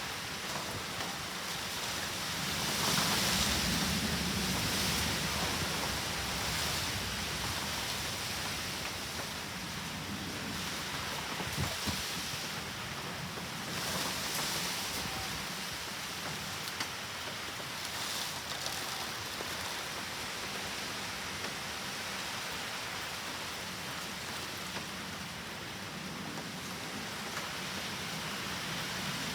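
Steady downpour of typhoon rain with wind, swelling in gusts, loudest about three seconds in and again briefly near the middle.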